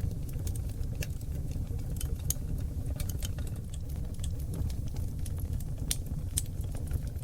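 Oak logs burning in a wood fireplace: a steady low rumble of flames with many quick, sharp crackles and pops scattered through it.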